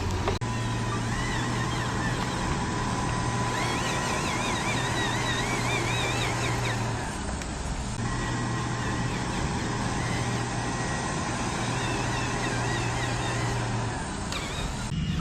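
Radio-controlled model construction vehicles running: a steady motor hum that breaks off for about a second around seven seconds in, then resumes and stops near the end, over a constant hiss, with a high warbling tone a few seconds in.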